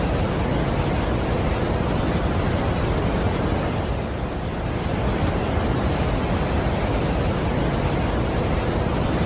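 Steady rushing of a large waterfall, an even unbroken noise that dips slightly about four seconds in.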